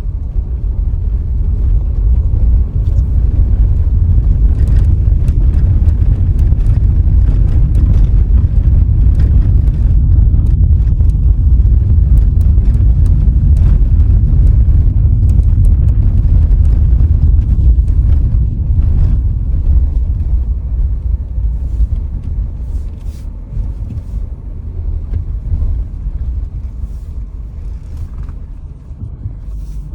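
A car driving along the road: a low rumble of road and wind noise, stronger through the middle and easing off over the last ten seconds, with scattered light ticks.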